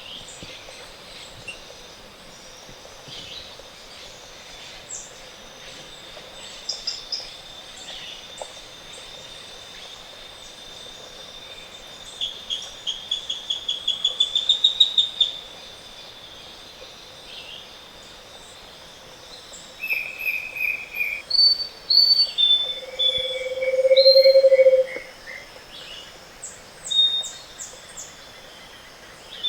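Morning chorus of tropical forest birds singing in turn over a steady high whine. About halfway through, one bird gives a quickening run of notes that rise in pitch and grow louder. Near the end comes the loudest sound, a low hollow note held about two seconds.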